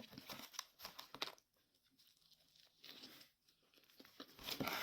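Paper burger wrapper crinkling and rustling as it is handled, in short irregular bursts with a quieter pause in the middle.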